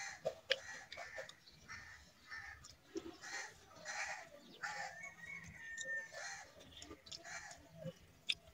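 People eating rice and curry: chewing, lip-smacking and slurping in short, quick, repeated bursts, with small clicks.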